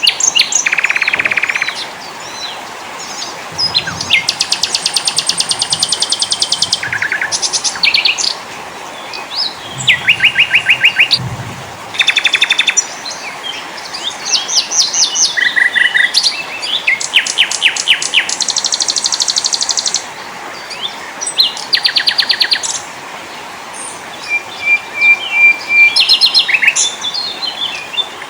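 Small songbirds singing one after another: fast high-pitched trills and chirping runs, each phrase a few seconds long and starting and stopping abruptly, over a steady hiss.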